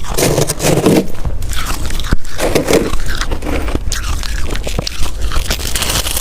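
Close-up biting and crunching of freezer ice: a person chewing hard, crackling bites in quick succession.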